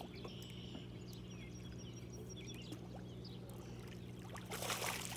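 Quiet outdoor ambience: a steady low hum, faint high chirps, and a short burst of noise near the end.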